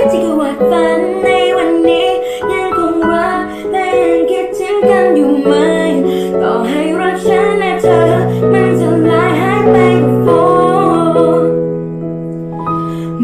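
A young girl singing a Thai pop ballad with piano accompaniment, her voice sliding through drawn-out notes; near the end her voice stops and the piano holds on alone.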